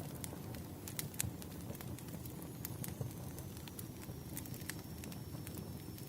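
Bonfire crackling: a steady low rumble of burning wood with irregular sharp pops and snaps. A faint thin high tone sets in about two seconds in and holds.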